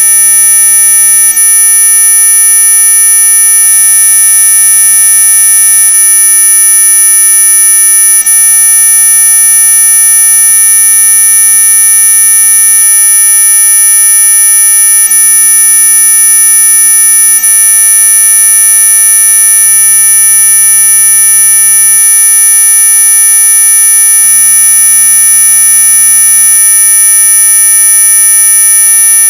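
Mosquito-repellent sound effect: a loud, steady electronic high-pitched whine made of several pure tones held without change, the strongest of them very high.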